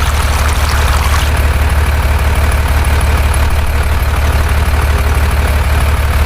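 A heavy engine idling steadily: a loud, low, even rumble with a fast throb.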